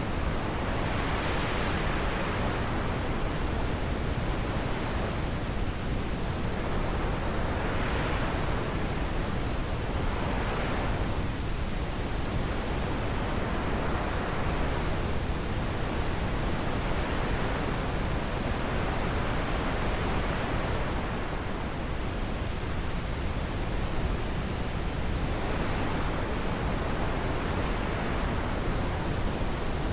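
Wind blowing as a steady rush that swells and eases in slow gusts every several seconds.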